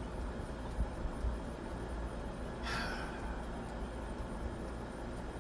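Outdoor background noise with a steady low rumble, and one brief high-pitched sound about two and a half seconds in.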